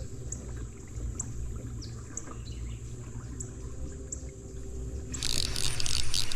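A hooked smallmouth bass splashing and thrashing at the water's surface about five seconds in, loud and lasting over a second. Before it, a steady low rumble and short high chirps repeating about once a second.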